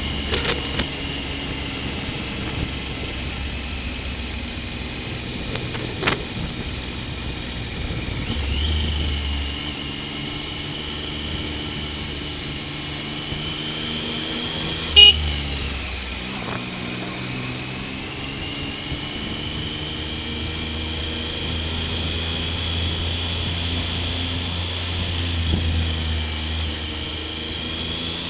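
Triumph Sprint ST 955i three-cylinder engine running on the move, its note drifting up and down with the throttle, under a low wind rumble on the action camera's built-in microphone. There is one sharp click about halfway through.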